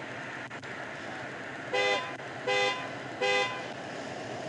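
Vehicle horn sounding three short beeps in quick succession, each a two-note chord, over a steady low engine hum.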